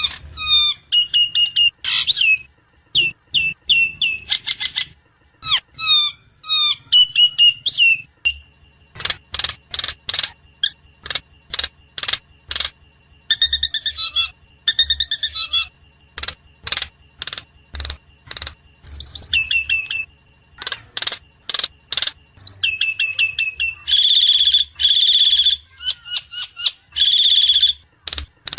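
Javan myna (jalak kebo) calling: a varied string of whistled chirps, then runs of short sharp notes at about two a second, broken by harsh rasping calls, the loudest near the end.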